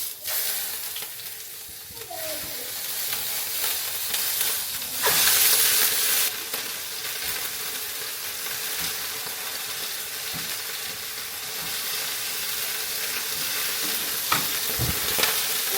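Food sizzling and frying in a hot pan. The sizzle starts suddenly, swells louder for about a second a third of the way in, then settles to a steady fry, with a brief knock near the end.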